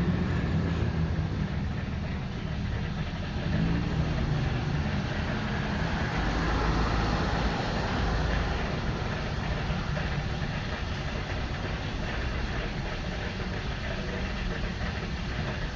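A steady low motor rumble with an even hiss over it.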